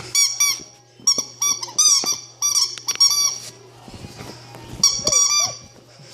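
Rubber squeaky toy being squeezed by a young pet chewing it: quick runs of short, high squeaks, then a pause, then one more run about five seconds in.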